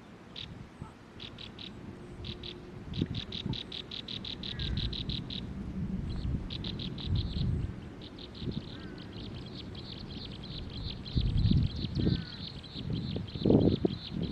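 A small bird calling in rapid trains of high, evenly spaced chips that merge into a continuous fast trill about halfway through. Low thuds and rumbles come and go beneath it, loudest near the end.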